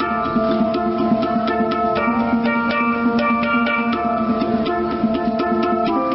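Hang drum (handpan) played by hand: a quick run of struck, ringing metallic notes, several strokes a second, the notes overlapping as they sustain.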